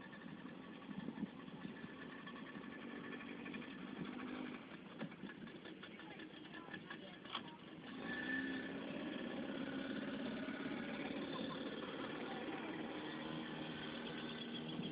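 Motorboat engine running, getting louder about halfway through as it picks up.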